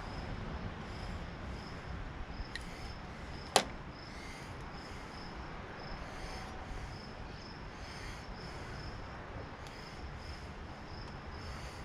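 A cricket chirping steadily, about two short high chirps a second, over low background hiss. One sharp click about three and a half seconds in.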